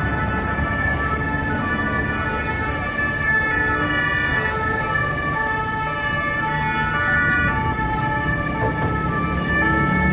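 Emergency vehicle sirens sounding, several steady tones overlapping, over a low rumble of street noise.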